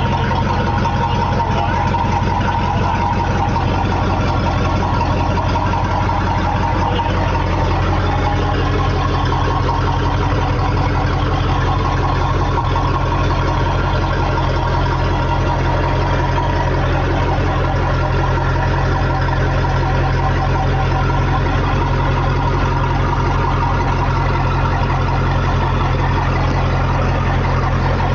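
Boat engine idling steadily through a through-hull exhaust, a loud, even low rumble that does not change in pitch or level.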